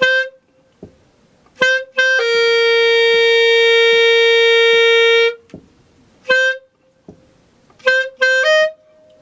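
Clarinet playing a few short, separated notes and one long steady note held for about three seconds, with the last note pitched a little higher than the rest.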